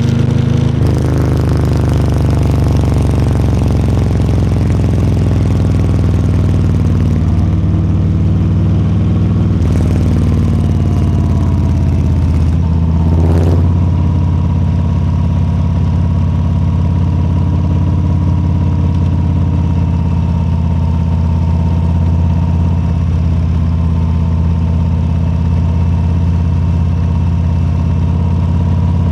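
Harley-Davidson Low Rider S's Milwaukee-Eight 117 V-twin engine, slowing in the first couple of seconds, then running at a steady low engine speed. Two short bursts of noise come about ten and thirteen seconds in.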